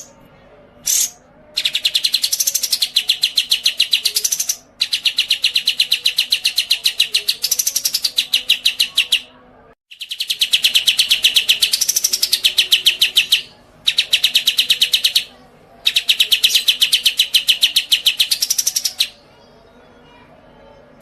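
Songbird singing: two short chirps, then a series of long, fast trills of evenly repeated sharp, high notes, about a dozen a second, each trill lasting a few seconds with a brief rising-and-falling note in its middle.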